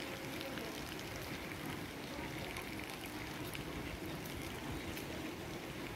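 Steady rain falling on rooftops and wet pavement: an even hiss with a few faint taps of drops.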